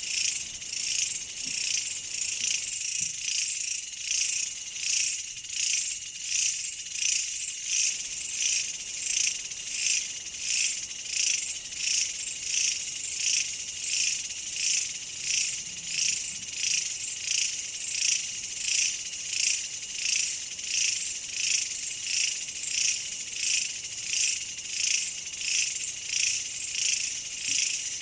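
A dense chorus of insects chirring, high-pitched and swelling and fading in a steady pulse about one and a half times a second.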